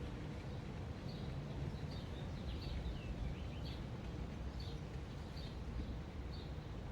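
Small birds chirping in short high notes about once or twice a second, with a few quick falling notes near the middle, over a steady low city rumble.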